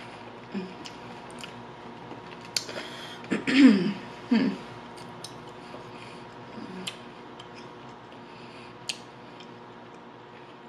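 Close-miked eating of fried food: chewing with scattered wet mouth clicks and crunches, and a couple of short hummed "mm" sounds of enjoyment about three and a half to four and a half seconds in.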